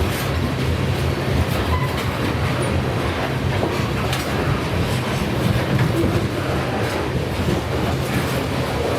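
Freight train rolling past: a steady rumble of wheels on rail, with occasional faint clicks.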